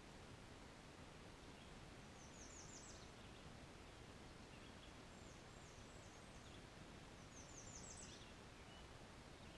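Faint bird song: a quick run of high, down-slurred notes about two seconds in and again about seven seconds in, with a few softer single notes between, over low background noise.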